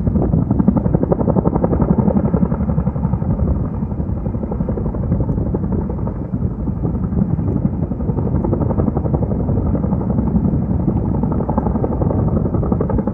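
Large firefighting helicopter flying close, its rotor blades beating loudly in a rapid, even chop with engine noise underneath.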